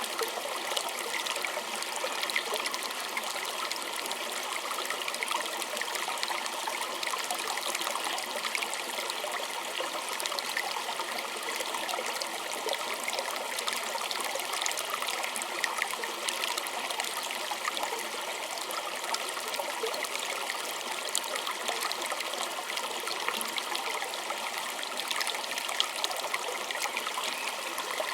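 Small stream running over stones, a steady trickling and bubbling of water with many small splashes throughout.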